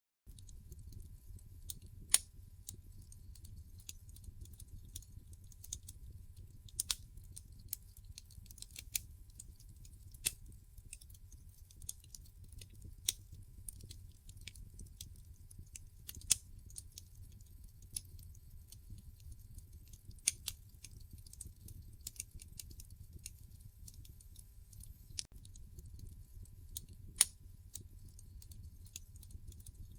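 Wood fire in a fireplace crackling, with irregular sharp pops and snaps over a low steady rumble of the flames. The sound starts after a brief silence at the very beginning.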